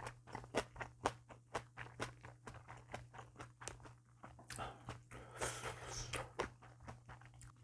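A person chewing a mouthful of food close to the microphone: a run of short, wet mouth clicks and smacks, a few a second, with a noisier stretch of chewing around the middle.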